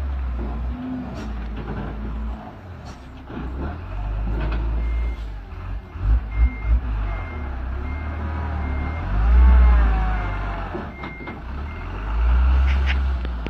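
Diesel truck engine running, with a reversing beeper sounding a regular series of short beeps at one pitch from about five seconds in until near the end. Three heavy low thumps come about six seconds in, and the engine swells louder twice, the first time with a rise and fall in pitch.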